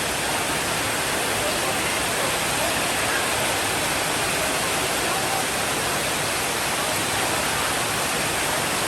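Heavy, steady rainfall making a dense, even hiss without let-up; no thunder is heard in this stretch.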